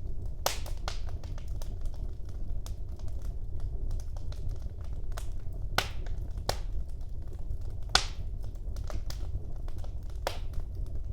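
Wood fire burning in a fireplace, with irregular sharp crackles and pops over a steady low rumble of the flames; the loudest pop comes about eight seconds in.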